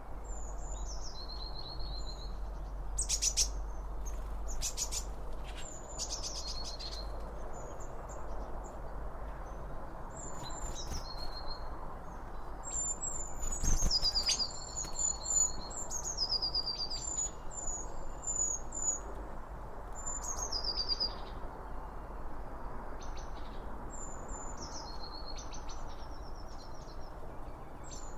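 Songbirds singing: short high whistled phrases that slide down and end on a held note, repeated every second or two, with quick rattling trills between them. A steady low rushing background runs underneath.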